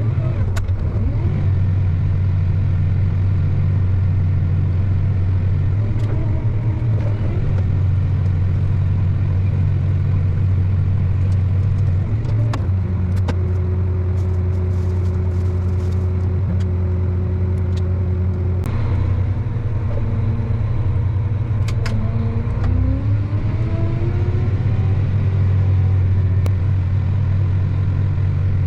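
A vehicle engine running steadily under way, a strong low drone, with a few sharp clicks and rattles and a higher whine that rises in pitch about three-quarters of the way through.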